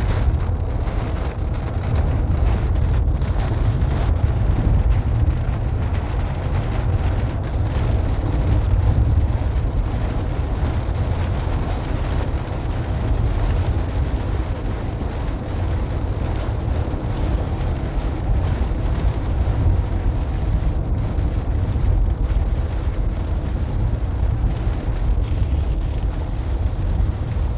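Steady low rumble of a car driving in rain, with a light even hiss of rain and spray over it.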